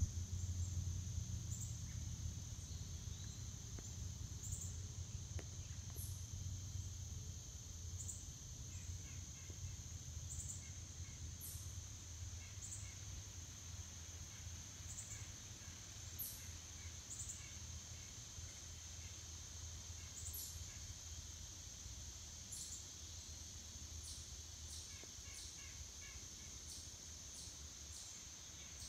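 Faint, steady high-pitched drone of insects in the woods, with a low rumble underneath that eases over time and a few faint chirps.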